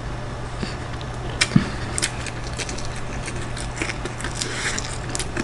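Close-miked eating: a person chewing food with wet mouth sounds and scattered sharp clicks. A steady low hum runs underneath.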